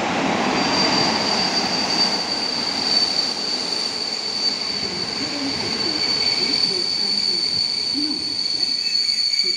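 Passenger train hauled by an EP07 electric locomotive pulling into a station and braking: a steady high-pitched squeal sets in about half a second in and holds, over the rumble of the coaches rolling past, which eases as the train slows.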